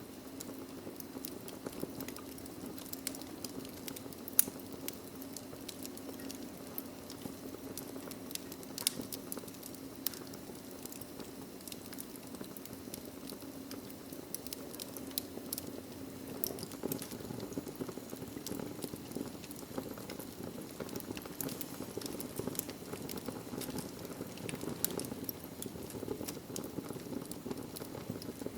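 Log fire burning in a fireplace, with a steady low rush of flames and irregular sharp crackles and pops, one louder pop about four seconds in.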